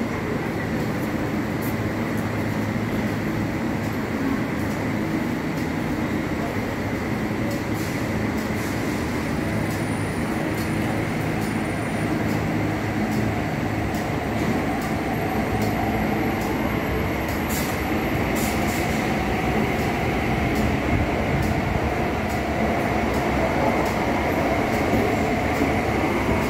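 MTR East Rail line electric train running along the platform: a steady rumble of the train moving past, with a faint whine that rises in the second half.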